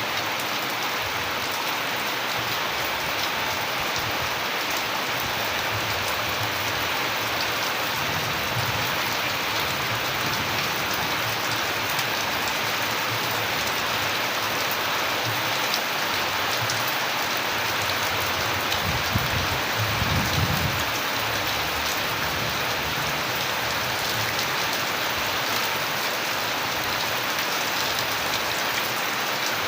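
Steady rain falling and pattering on surfaces, an even, dense hiss. About two-thirds of the way through, a brief low rumble rises under it and fades.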